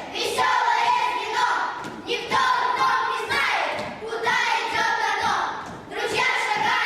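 A group of children's voices singing a song together, in phrases of held notes with short breaks between them.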